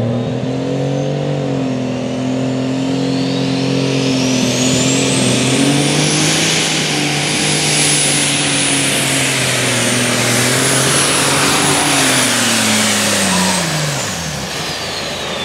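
Light super stock pulling tractor's turbocharged diesel engine running hard under load. Its turbo whine climbs steeply over the first several seconds to a high, held scream. Near the end the engine winds down and the whine falls away as the pull ends.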